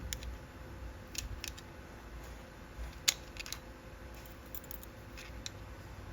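Scattered light metallic clicks and taps from tools and parts being handled while the primary chain's tension adjuster is worked, with one sharper click about three seconds in.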